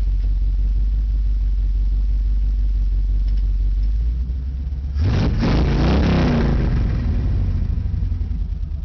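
Chevrolet Caprice 9C1's 350 V8 on straight headers running with a steady low rumble. About five seconds in it is revved harder for about two seconds, the pitch sweeping up and back down, before settling again.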